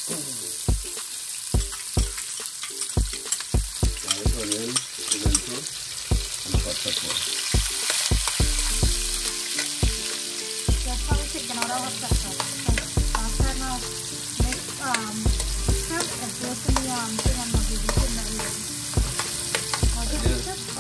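Chopped onion, garlic and pimento peppers sizzling in hot oil in a nonstick pot, a steady hiss, while a metal spoon stirs them with frequent short taps and scrapes against the pan.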